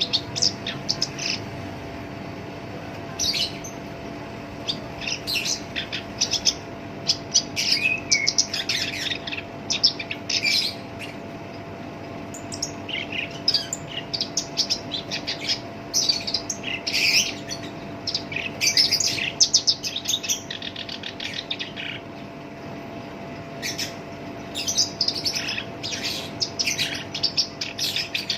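Black-browed reed warbler singing a rough, harsh song: phrases of fast chattering high notes lasting a few seconds, with short pauses between them. A faint steady hum runs underneath.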